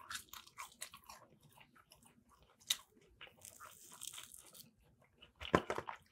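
Close-up crunching and chewing of crispy fried fish batter, bitten and chewed in the mouth with many small crackles. A louder crackle comes about five and a half seconds in as a piece of the battered fish is torn off.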